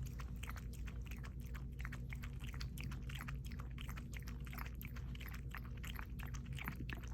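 Pomeranian lapping water with its tongue, a quick run of small wet clicks, several a second, over a steady low hum.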